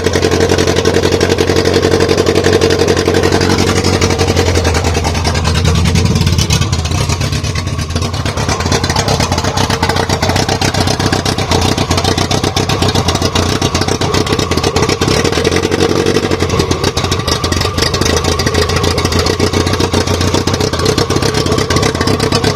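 Freshly rebuilt Toyota 2E 1.3-litre four-cylinder on twin Weber DCOE 40 carburettors with a 292 cam, idling while its ignition timing is set. About five seconds in the idle sags and wavers, then settles back to a steady run.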